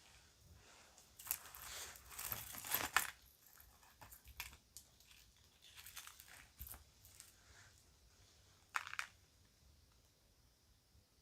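A bag rustling and small kids' jewelry pieces clicking as they are handled: a run of rustling in the first few seconds, scattered light clicks after, and one short rustle near the end.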